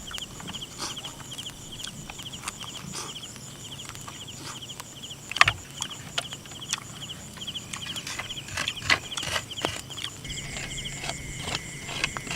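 Insects chirping in a steady rhythm of rapid, high pulses, with scattered sharp clicks and taps. One louder knock comes about halfway through, and a steady high tone joins near the end.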